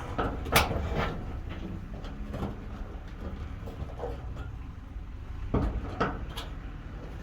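Short metallic clinks and scrapes of wire being pulled and twisted with pliers against a metal livestock panel, several separate knocks with a pause in the middle.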